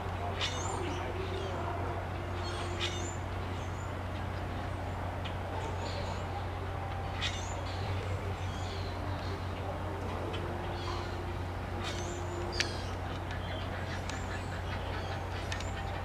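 Birds calling: many short, sharp, high calls and chirps scattered at irregular intervals over a steady low hum.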